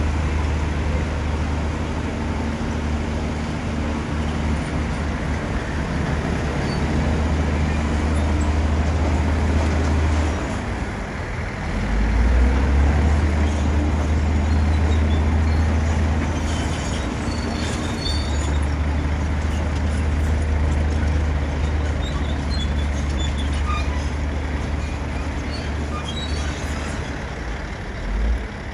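Bulldozer's diesel engine working under load, a deep steady drone. It eases briefly about eleven seconds in, then picks up louder again, with faint scattered metallic clinks in the second half.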